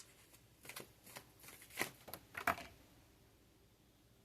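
Faint rustles and soft taps of tarot cards being handled: a handful of short card sounds in the first two and a half seconds, then quiet.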